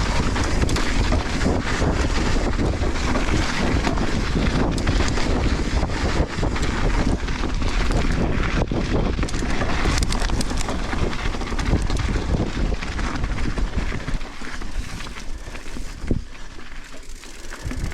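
Wind buffeting the microphone of a mountain biker's action camera during a fast descent on a dirt trail, with the tyres rolling over the soil and the bike rattling over rocks and roots. The rush eases off about fourteen seconds in as the bike slows.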